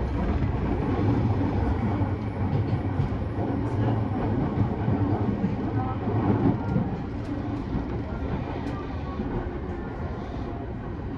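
JR E217 series commuter train running, heard from inside a passenger car: a steady low rumble of wheels on rails.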